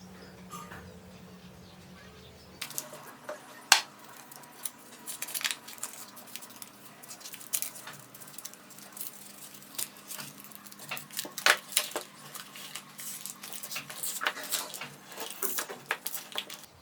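Irregular clicks, taps and clinks of small hard objects being handled and set down, starting a few seconds in, with one sharp knock early on and several louder clicks later.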